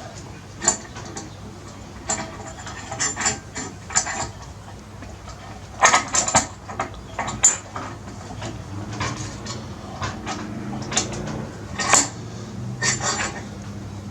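Irregular metal clinks and clanks from a motorcycle scissor jack being worked under a Harley-Davidson Sportster to lift the front wheel, loudest around the middle and near the end.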